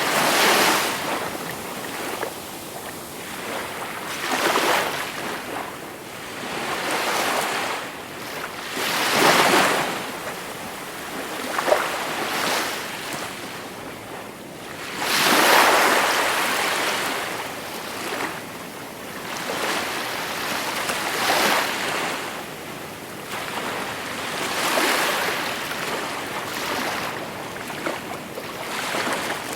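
Gentle sea waves washing onto the shore, one after another, each swelling and falling away every few seconds. The largest wave breaks about halfway through.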